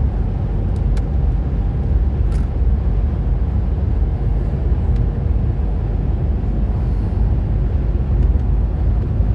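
Mercedes-Benz W126 500 SE at highway speed, heard from inside the car: a steady low rumble of the 5.0-litre V8, tyres and wind noise.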